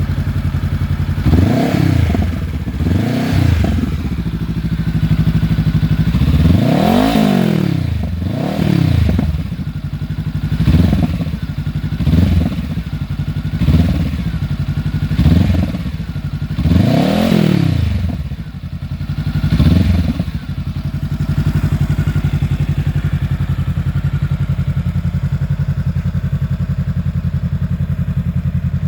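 Honda CB500X's parallel-twin engine breathing through an IXIL L3X Hyperflow slip-on exhaust with its dB killers removed, idling and then blipped about ten times, the revs rising and falling each time. After that it settles back to a steady idle for the last several seconds.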